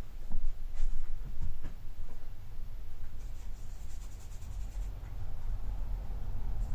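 A few light handling clicks, then a quick run of fine scratchy strokes about three seconds in: paint being worked onto a toy by hand.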